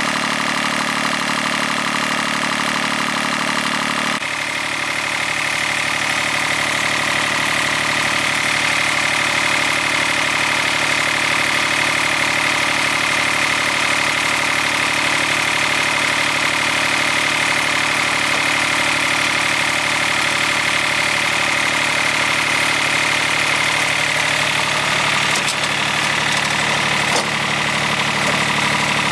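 Old tractor's engine running steadily, its note shifting about four seconds in.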